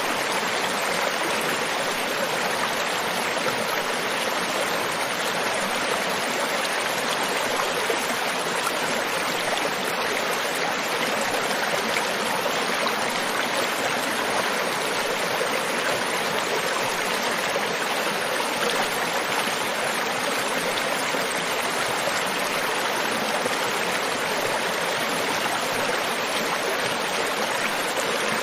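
River water flowing over rocks: a steady, even rushing and babbling.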